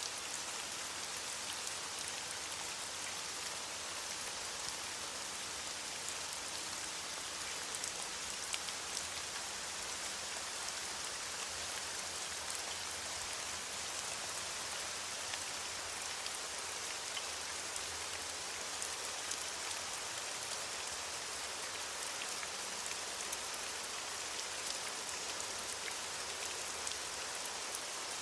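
Steady rain falling on leaves: an even hiss of many fine drops, with scattered tiny drop ticks.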